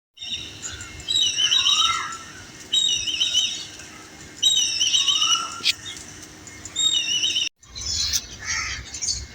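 A songbird sings the same short, high warbling phrase four times, each about a second long and spaced evenly, over a faint steady hum. Near the end the sound cuts out briefly, then other birds chirp.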